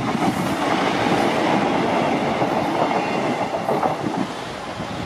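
EMR Regional diesel multiple unit train passing close by, a steady noise of engine and wheels on the rails that eases off a little near the end.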